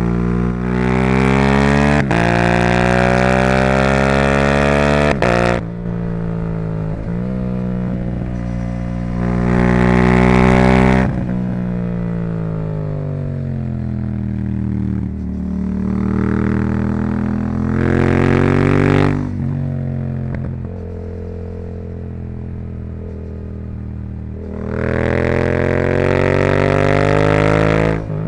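Yamaha YZF-R7's 689 cc parallel-twin engine, stage-2 tuned and breathing through a Yoshimura R77 exhaust, pulling hard through the gears with brief breaks in pitch at each quick upshift. Between the pulls the engine drops off throttle and decelerates on overrun with falling pitch. This happens four times: loud acceleration runs near the start, about ten seconds in, about eighteen seconds in and near the end.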